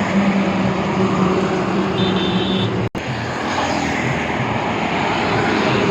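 Heavy road traffic passing close by: buses and trucks running, with a brief high-pitched horn about two seconds in. The sound cuts out for an instant just before three seconds.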